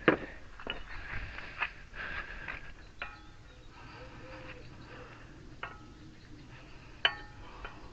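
Metal tools and parts being handled on a workbench: a run of separate clinks and knocks with short metallic rings, the sharpest right at the start and another about seven seconds in, with some rustling between them.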